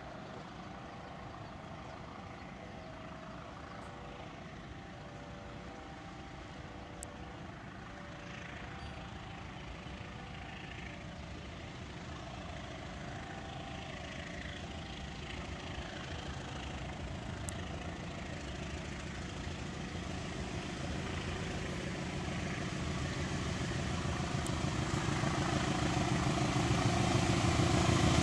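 A train's diesel locomotive approaching, its engine rumble growing steadily louder.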